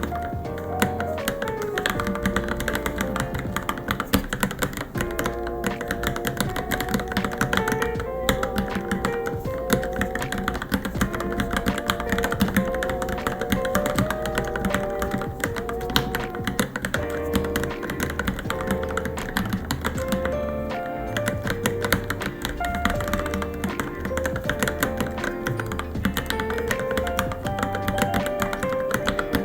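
Continuous fast typing on a Varmilo Minilo mechanical keyboard, a steady stream of key clicks and clacks, with background music playing under it.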